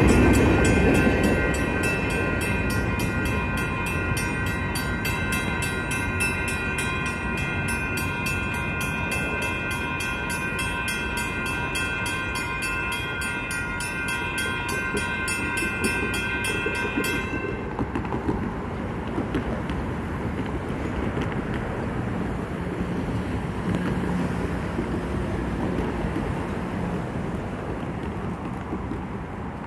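BNSF freight train rumbling through a grade crossing while the crossing bells ring with a fast, steady beat. The bells cut off abruptly about two-thirds of the way through, as the crossing signals shut off once the train has cleared, and the train's rumble carries on, fading slowly.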